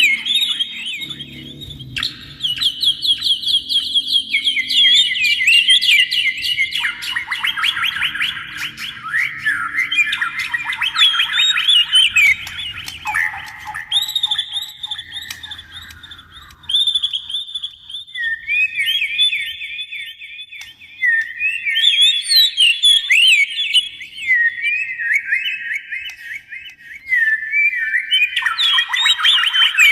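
Songbird of the magpie-robin and shama kind (Copsychus) singing nonstop in fast, varied runs of whistled and chattering notes. The song pattern changes abruptly every few seconds, as if separate recordings were joined end to end.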